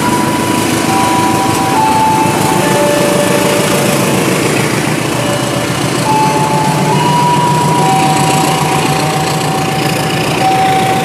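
Passenger coaches of a locomotive-hauled train rolling past close by as it pulls out of the station: a steady rumble of wheels on the rails. Several high, steady tones come and go over the rumble.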